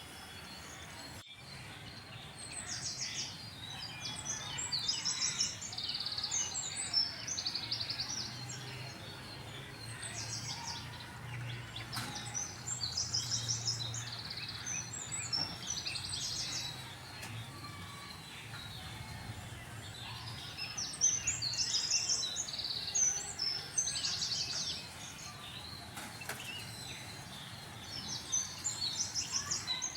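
Small birds chirping and twittering outdoors in repeated bursts of high, quick notes every few seconds, over a steady background hiss with a faint low hum.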